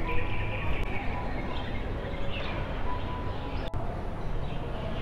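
Birds chirping faintly over a low, steady outdoor rumble. The sound breaks off for a moment about three and a half seconds in.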